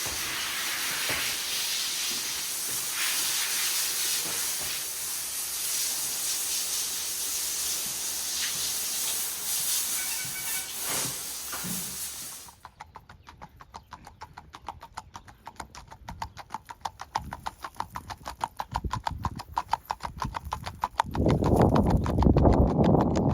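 A steady hiss that cuts off abruptly about halfway. It gives way to a fast, even run of horse hoofbeats from a gaited spotted saddle horse, with a loud low rushing noise joining near the end.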